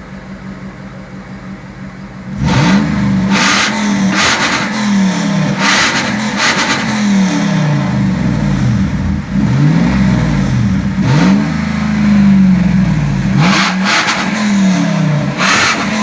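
Car engine idling, then from about two and a half seconds in revved again and again through a loud exhaust, the pitch climbing and dropping back with each rev.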